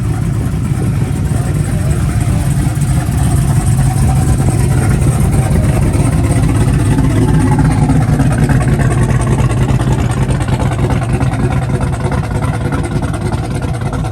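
A car engine running close by with a deep, steady drone. It grows louder toward the middle and then eases off, as a show car rolls slowly past.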